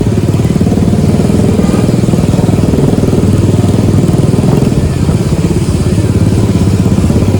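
Single-cylinder motorcycle engine and exhaust running steadily under way, a fast even train of firing pulses; very loud.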